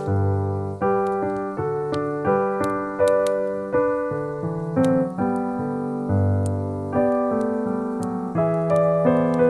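Piano music: a melody of struck notes, a new one roughly every half second, each fading away over held lower notes, with an occasional sharp click.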